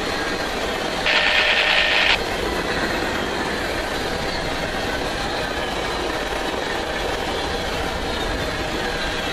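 Freight cars, covered hoppers and tank cars, rolling past at about 49 mph with a steady rumble of wheels on rail. About a second in, a high-pitched screech lasts about a second.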